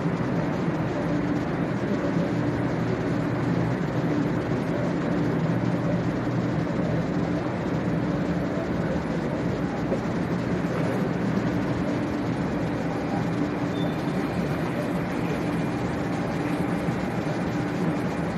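Steady hum of a 500-series shinkansen standing at a station platform with its onboard equipment running, over the even rush of the station.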